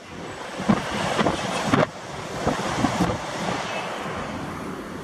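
Wind buffeting the microphone over the rushing wash of sea surf, gusting in the first couple of seconds and then steadier.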